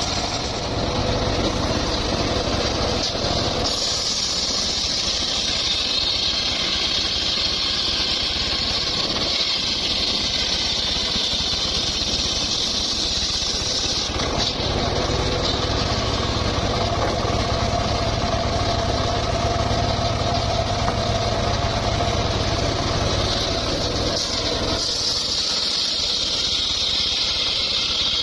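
Engine-driven sawmill running steadily. A loud high hiss comes in about four seconds in and again near the end.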